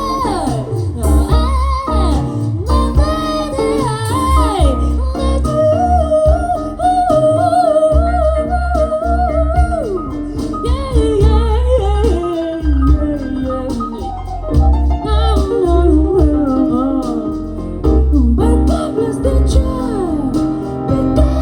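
Live jazz band music with a female singer vocalising long, sliding wordless lines over a strong bass and chordal accompaniment.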